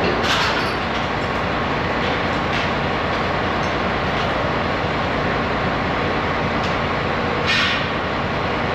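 Truck's diesel engine running steadily, with two short hisses about a third of a second in and near the end.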